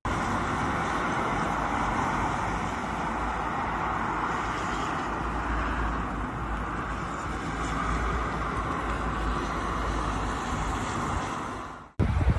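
Steady road traffic noise: vehicles and tyres rumbling and hissing on the road, with no breaks, cutting off suddenly near the end.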